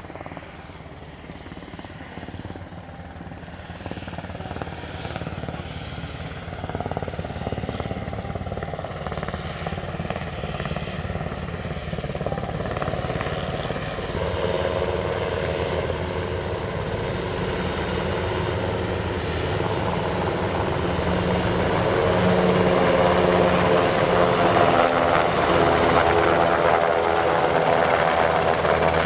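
Mitsubishi SH-60K anti-submarine helicopter coming in to land, its twin turboshaft engines and rotor growing steadily louder as it approaches.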